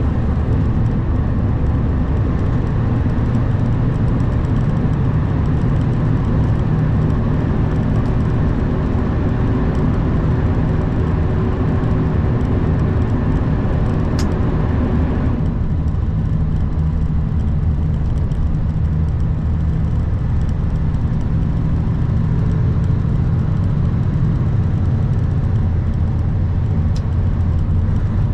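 Kenworth W900 semi truck driving at steady speed: a constant low diesel engine drone under road and wind noise. About halfway through, the higher hiss drops away suddenly while the engine drone carries on.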